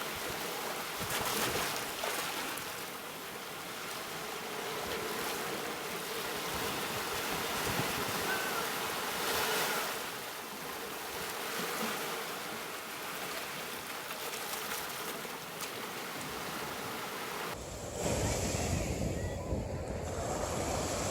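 Ocean surf washing in, a steady hiss with gentle swells in loudness. Near the end the sound changes abruptly to a deeper, wind-blown surf.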